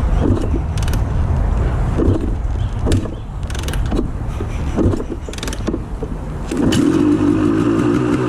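1989 Honda CR250R two-stroke engine on a cold start, running rough and uneven with irregular clattering, then catching into a steady, even run about six and a half seconds in. The unevenness is cold purging.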